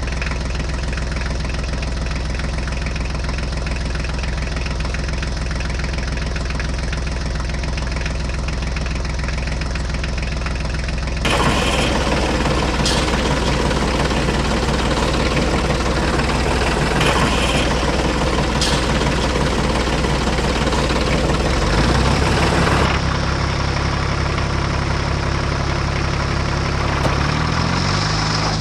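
Tractor diesel engine idling with a steady knocking beat. The sound changes abruptly about eleven seconds in and again about twenty-three seconds in. Near the end its pitch steps up as it revs.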